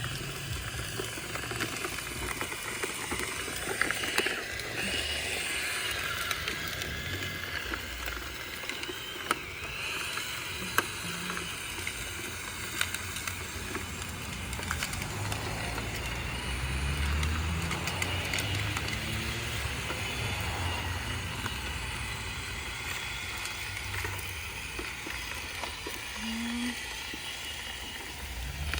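Roomba 671 robot vacuum running over tree debris on a driveway: a steady whir with scattered small clicks and rattles, over a low uneven rumble.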